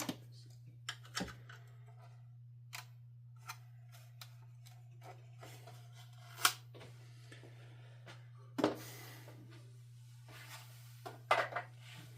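Scattered small clicks and taps of plastic and metal parts being handled and pried apart, the sharpest about halfway through and again near the end, over a steady low hum.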